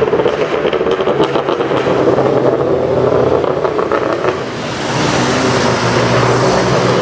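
BMW 1M's twin-turbo straight-six through a loud aftermarket exhaust, crackling and popping in the first second or two, then pulling away with the engine pitch rising from about five seconds in.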